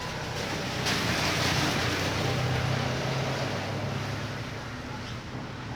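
Thunder: a sudden crash about a second in that rolls away slowly over several seconds, with a steady low hum underneath.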